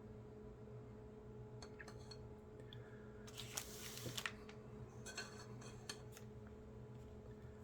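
Trading cards being handled and flicked through: a few light clicks, then two short rustling swishes of cards sliding against each other, the louder about three seconds in and another about five seconds in, over a faint low steady hum.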